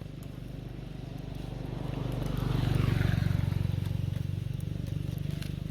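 A motor vehicle's engine passing by: a steady low engine note that grows louder to a peak about three seconds in, then fades.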